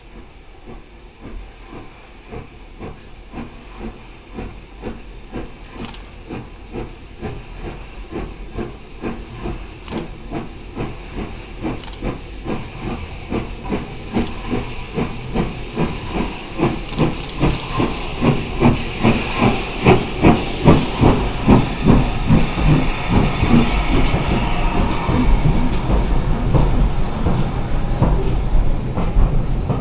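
Steam locomotive working towards the listener, its exhaust beats coming about twice a second and growing steadily louder, with a burst of steam hiss about two-thirds of the way through.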